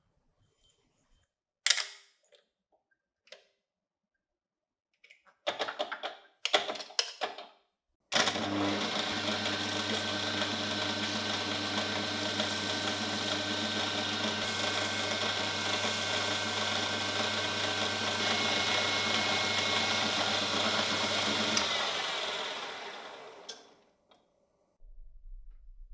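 Electric motor of a vintage ESM Die Krone coffee grinder switched on, running with a steady hum and whine, then winding down after switch-off. A few clicks and handling knocks come before it starts.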